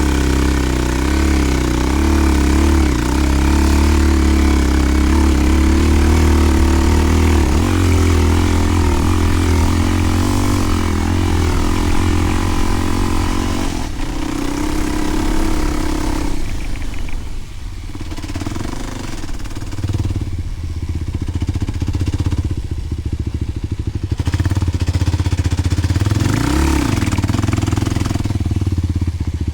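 Kawasaki KLX300's single-cylinder four-stroke engine through a Delkevic 10-inch oval slip-on exhaust, running at steady revs with a strong, even note for about the first half. It then drops to a lower, quieter note, with a quick rev that rises and falls near the end.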